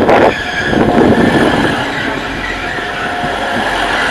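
Train moving along the station tracks, a loud steady rumble of wheels and running gear with a faint whine held over it.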